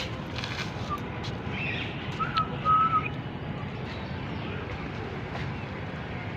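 A few short whistled notes at one steady pitch, one about a second in and two more around two to three seconds in, the last held a little longer, over a steady background hum of an outdoor crowd.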